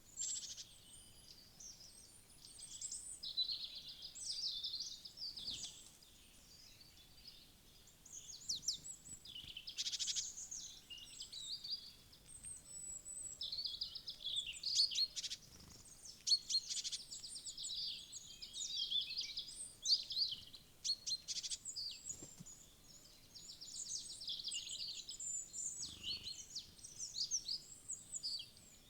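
Several small songbirds chirping and calling busily, with overlapping high chirps, short trills and quick runs of buzzy notes and a couple of brief lulls.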